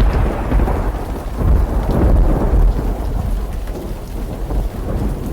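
Thunderstorm: heavy rain with deep rolling thunder, loud at first and easing off from about three seconds in.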